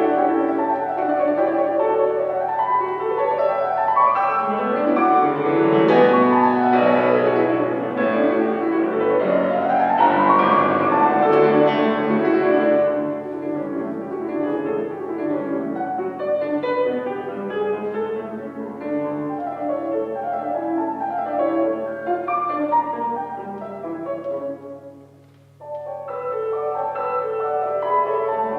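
Solo piano playing classical music: fast passagework with quick rising and falling scale runs, loudest in the first half, with a short break about 25 seconds in before the playing resumes.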